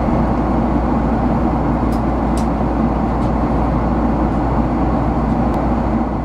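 Steady cabin noise aboard a Boeing 767-300 in flight: the engines and the airflow over the fuselage running as a constant rush with a low hum underneath, with a couple of faint ticks about two seconds in.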